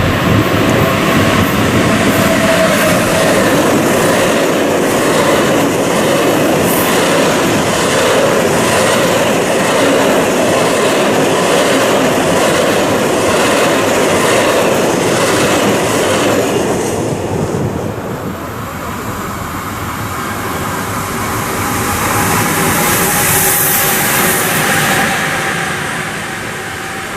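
Freight train wagons rolling past close by, their wheels clicking over rail joints in a steady clickety-clack. The noise drops away about two-thirds of the way through, then rises briefly again with a high hiss.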